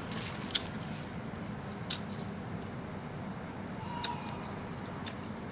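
Crunchy bites and chewing of a slice of unripe green mango, with sharp crunches about half a second, two seconds and four seconds in.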